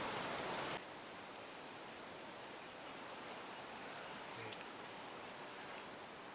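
Faint, steady outdoor background hiss that drops a little in level about a second in, with a few faint, short high chirps.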